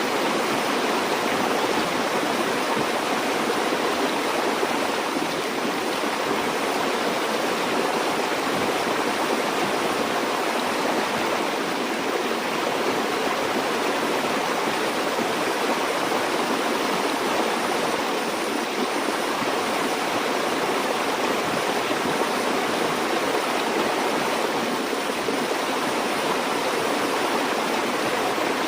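Stream water flowing and rushing steadily over rocks, a continuous even splashing noise with no breaks.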